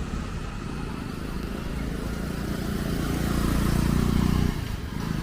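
Street traffic: a motor vehicle running close by, its low rumble growing to a peak about four seconds in and then falling away quickly.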